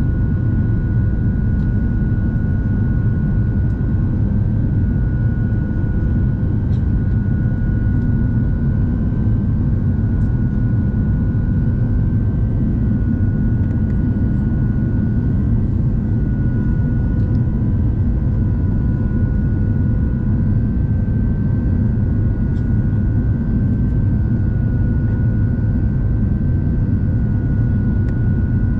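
Steady cabin drone of an Airbus A350-900 in flight: a low rumble of airflow and Rolls-Royce Trent XWB engines, with a steady high whine over it.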